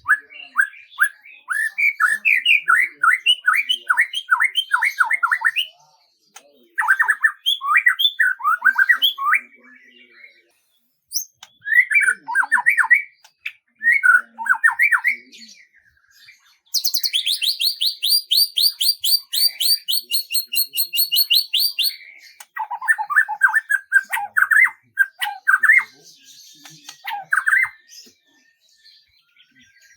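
Songbird song in phrases of rapid repeated down-slurred notes, each lasting a few seconds with short pauses between. About halfway through, a higher, faster, brighter trill runs for about five seconds.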